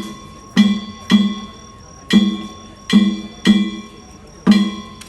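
Danjiri festival percussion: a big taiko drum and metal kane gongs struck together in a slow, uneven rhythm, often two strikes about half a second apart. The gongs ring on between the strikes.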